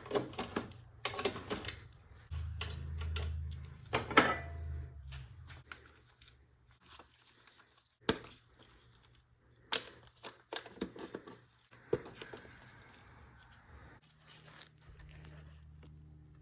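Irregular clicks, knocks and scraping of hand tools and parts being handled during car repair work, with some rustling.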